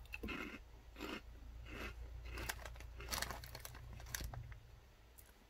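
Crisp lemon bacon chips with a pork-rind texture being bitten and chewed close to the microphone: a run of short crunches, about one or two a second, dying away about four seconds in.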